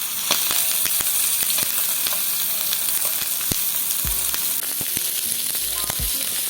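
Chicken searing in hot oil in a grill pan: a steady, loud sizzle dotted with many sharp spattering pops.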